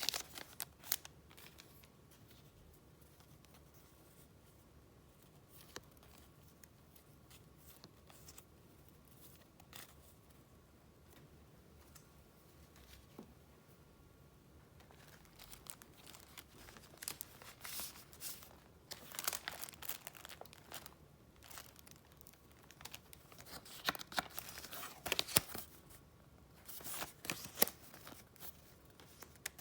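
Paper being handled: about the first half is soft, with a few light taps, then repeated bursts of paper rustling and crinkling.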